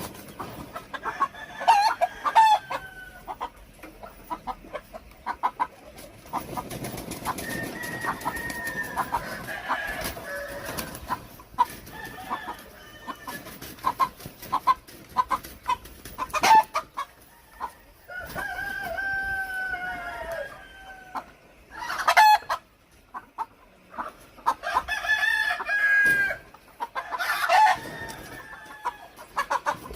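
Chickens clucking, with a rooster crowing several times in long, arching calls. A few sharp knocks stand out among the calls.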